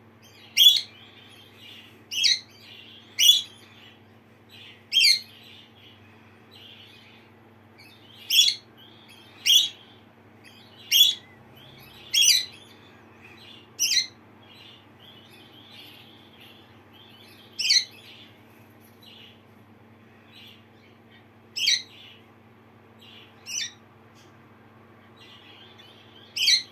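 Lineolated parakeet contact calls: short, sharp chirps repeated about a dozen times at irregular intervals, with softer twittering between them.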